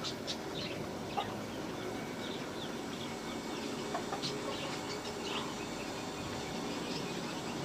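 Faint, scattered short calls of birds, such as chickens, over a steady low background noise.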